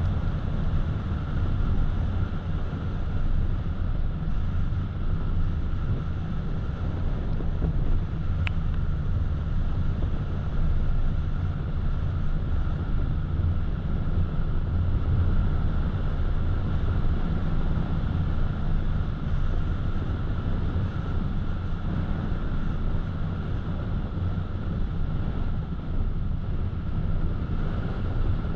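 Steady low rumble of a car driving along, tyre and engine noise with no change in pace. A faint steady whine sits above the rumble, and a single brief tick comes about eight and a half seconds in.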